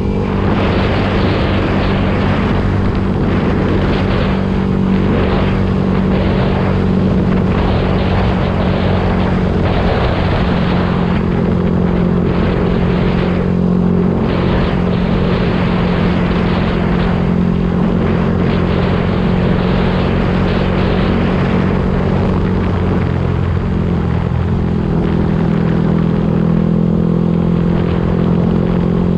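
Yamaha YZF-R125's 125 cc single-cylinder four-stroke engine and exhaust running at a steady, even speed, its pitch shifting only slightly about three-quarters of the way through.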